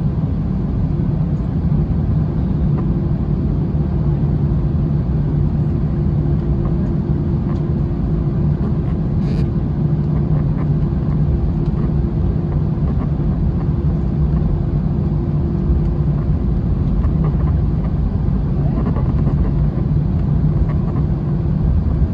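Steady rumble and hum of an Airbus A321's jet engines running, heard from inside the cabin, with one brief click about nine seconds in.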